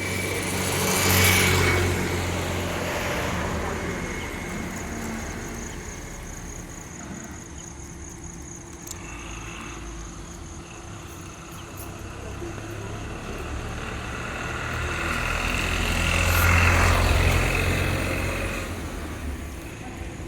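Road vehicles passing by: a steady background of traffic noise with two vehicles rising and fading as they go past, one about a second in and another about sixteen seconds in.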